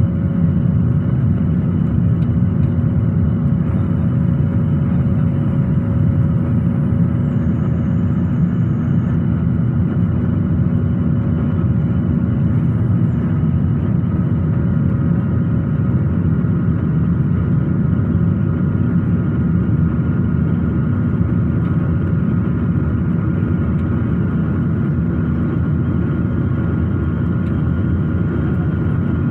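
Airliner cabin noise: the jet engines and airflow heard from inside the passenger cabin, a steady low rumble with a few faint steady whining tones above it.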